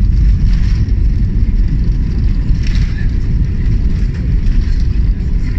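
Airbus A320 engines in reverse thrust during the landing roll, heard from inside the cabin as a loud, steady low roar.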